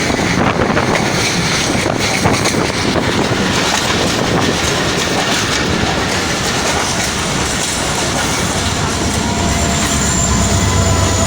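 Passenger train running on the rails: a loud steady rumble of coach wheels and running gear, with dense rapid clicks, and a few faint steady tones creeping in near the end.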